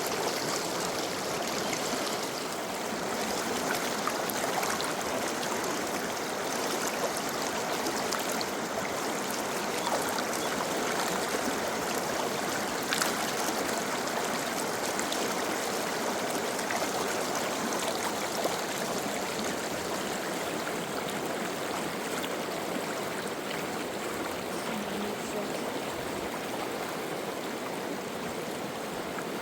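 Steady rush of a flowing stream or river running over rocks, an even noise that does not let up.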